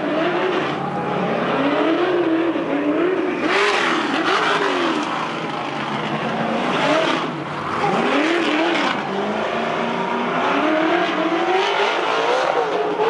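Trophy truck engine revving hard over and over, its pitch climbing and dropping in quick swells, with bursts of rushing noise between the revs.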